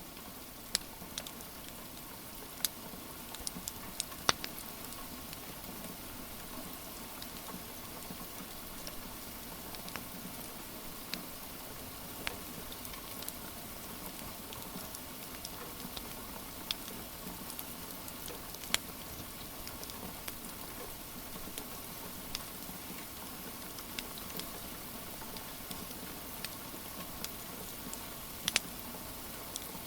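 Steady rain patter mixed with a wood fire crackling, its sharp pops scattered irregularly, a couple of them louder near the start and near the end.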